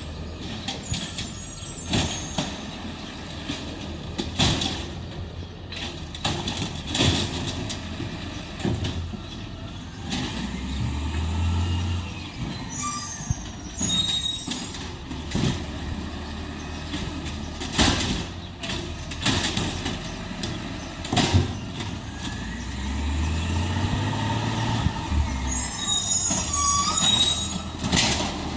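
Garbage truck working: its engine revs up twice, amid many sharp clanks and knocks, with short high squeals and hisses of the air brakes.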